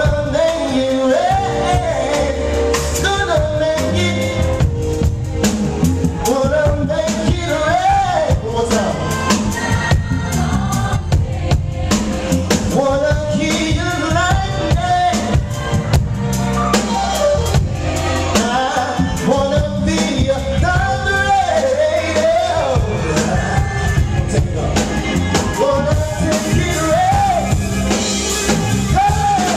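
Live R&B band playing with drum kit and bass under a sung melody line that rises and falls in phrases every couple of seconds.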